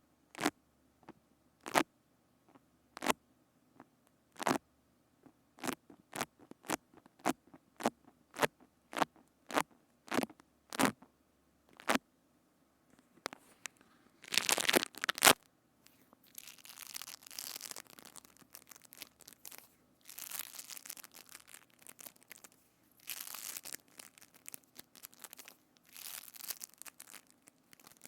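Slime worked right against a binaural microphone. For about twelve seconds there is a run of separate sharp pops that come faster and faster. Then a loud crackling burst, followed by repeated crunchy, crackling squishes in bursts of a second or two.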